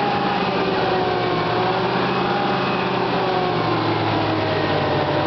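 Fire engine's engine running steadily under way, a continuous low drone with slowly shifting higher tones above it.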